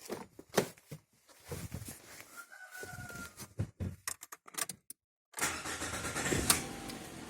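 A Lada Granta's 11182 engine being started: a few clicks and knocks, then the engine catching and running steadily for the last two seconds. The engine has logged misfires.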